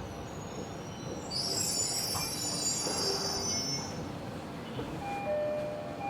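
Tobu 70000 series subway train heard from inside the car, its steel wheels squealing high-pitched for about three seconds over a steady running rumble. Near the end steady motor tones set in as the train slows into a station.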